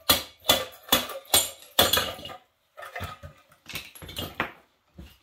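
A quick run of sharp metal knocks and clatter, about two a second, as parts of the seized engine are struck and worked loose. The knocks turn softer and more scattered after about three seconds, with a last single knock near the end.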